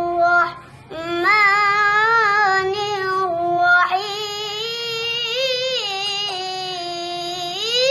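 A young child's voice chanting Qur'anic recitation in melodic qiraat style, drawing out long wavering notes. It breaks for breath briefly about a second in and again near four seconds.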